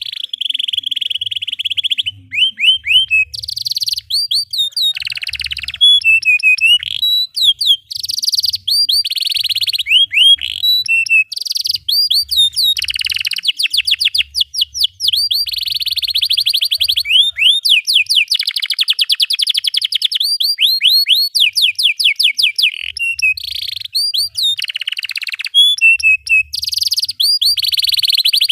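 Domestic canary singing a long, unbroken song of rapid rolling trills and shrill chirps, with fast runs of repeated sweeping notes.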